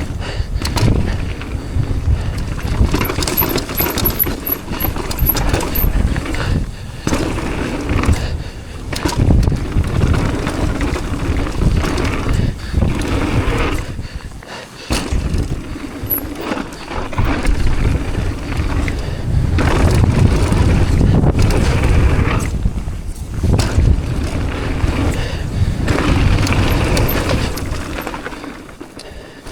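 Wind buffeting the microphone while a mountain bike runs down a rough dirt trail, tyres rumbling and the bike knocking and rattling over bumps. The noise surges and drops repeatedly, easing off near the end.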